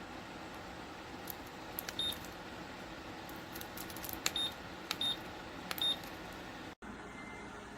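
Steady fan noise from an electric fan heater with four short high beeps, each with a click, as its control buttons are pressed: one about two seconds in, then three more between four and six seconds. The sound cuts briefly near the end and a different steady hum follows.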